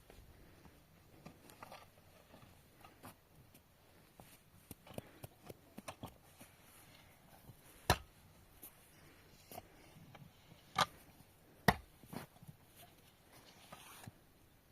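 Scattered light knocks and clicks in a quiet small room, with three sharper knocks: one about halfway through and two a second apart later on.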